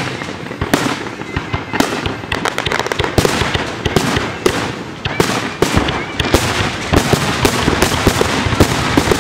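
Fireworks going off in rapid succession, many sharp bangs and crackles overlapping, growing denser in the second half.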